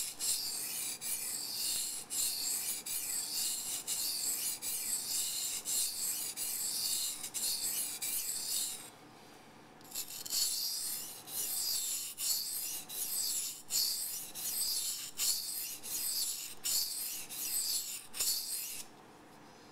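Folding-knife blade stroked back and forth on a 400-grit bamboo waterstone: a quick run of gritty scraping strokes, pausing for about a second near the middle and stopping shortly before the end. The stone is running fairly dry, building little mud on the small bevel.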